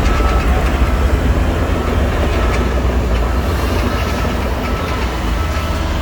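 Shantui crawler bulldozer's diesel engine running under load with a steady low rumble and the clanking rattle of its steel tracks. Faint reversing beeps repeat about once a second behind it.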